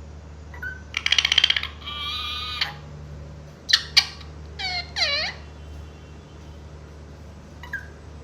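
Pet parrot calling in a series: a fast chattering trill, a held call, two sharp short squawks, then two arched calls that bend up and down in pitch.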